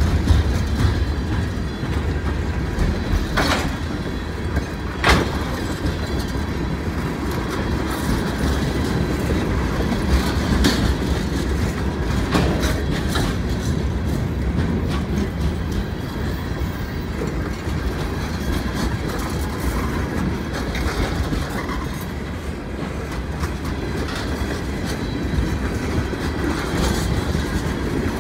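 Freight cars of a manifest train (tank cars and boxcars) rolling past at speed: a steady, loud rumble of steel wheels on rail with clickety-clack and several sharp clanks.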